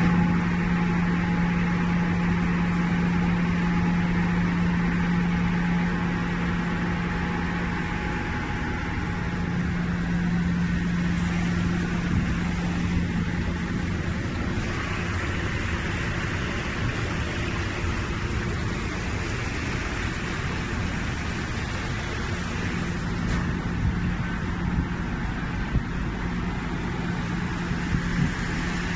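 Silica sand processing machinery running steadily: a constant low machine hum under a continuous wash of mechanical and water-like noise, with a few light knocks near the end.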